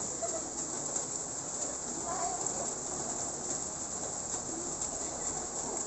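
Steady hiss of light rain falling on a wet street, with a few faint, brief calls in the distance.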